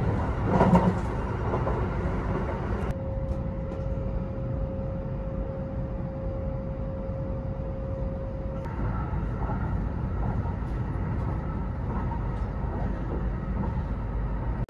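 Kintetsu Hinotori limited express train running, heard inside the passenger car: a steady low rumble, with a steady whine for several seconds in the middle.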